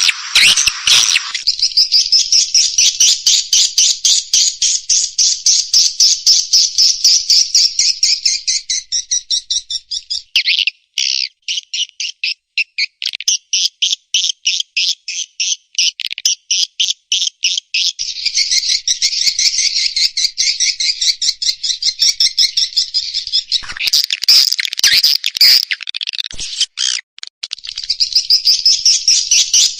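Recorded edible-nest swiftlet calls played as a swiftlet-house lure sound: dense, rapid twittering chirps. About a third of the way in they break into a run of separate chirps, about four a second, before the dense twittering returns.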